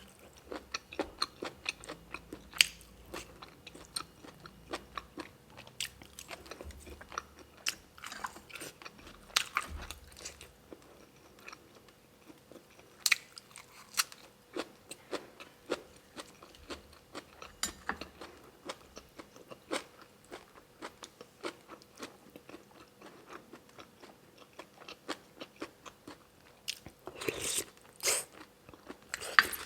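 Close-miked eating of beef noodle soup: chewing with a steady run of small wet mouth clicks, and a few longer, louder noisy bursts, the loudest near the end.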